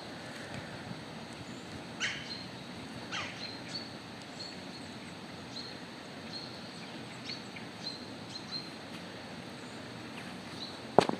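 A small bird chirps repeatedly with short high notes, with two longer falling calls a few seconds in, over a steady outdoor hiss. A sharp thump comes near the end.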